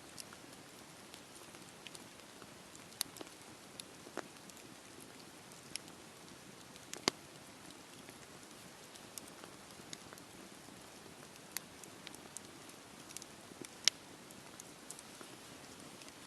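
Wood fire crackling in a fireplace: a steady hiss with irregular sharp pops and snaps, two of them louder than the rest.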